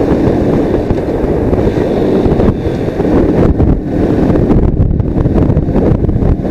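Wind buffeting the microphone of a motorcycle at highway speed, a loud rough rumble, with the bike's engine and road noise underneath.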